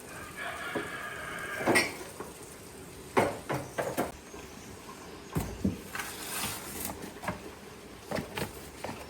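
A scatter of short knocks and clatters of objects being handled, with a brief squealing scrape near the start.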